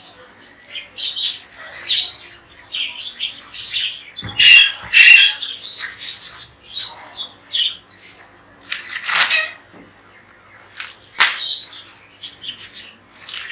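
A room of pet parrots squawking and chirping in many short, harsh calls. The loudest squawks come about four to five seconds in, with more sharp calls around nine and eleven seconds.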